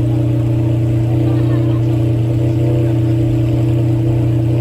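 A steady low hum of a running engine, unchanging in pitch and level, with faint voices underneath.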